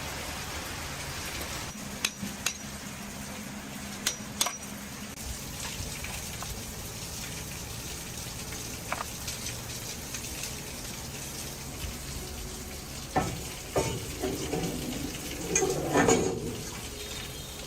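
Steady hiss with scattered light metallic clicks and clinks of small metal parts being handled, and a busier run of knocks and rattles near the end.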